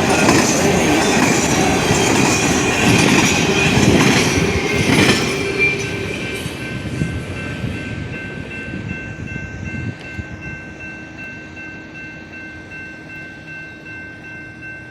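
Train passing with rumble and wheel clatter, loud for the first five seconds and then fading away. As it goes, a grade-crossing bell keeps ringing faintly as a steady tone.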